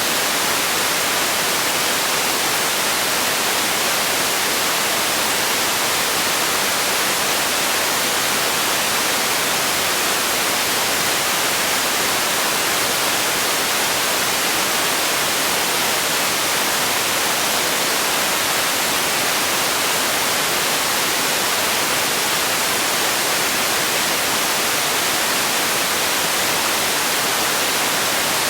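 Steady, unchanging white-noise hiss, bright and airy with little low rumble.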